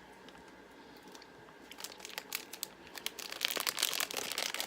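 Plastic candy bag crinkling as it is handled and opened, light at first and growing dense and louder over the last second or so.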